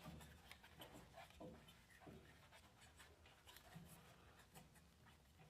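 Faint scratching and light clicks as an air filter is worked into place in a torpedo heater's housing.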